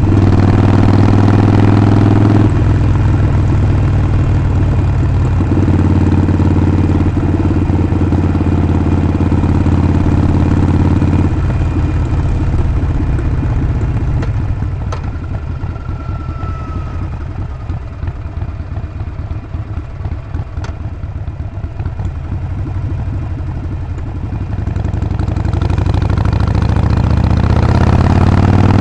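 Harley-Davidson Sportster 48's air-cooled V-twin running under way, steady with a few shifts in its note early on. About twelve seconds in it drops back to a low, quieter rumble, then revs up again near the end.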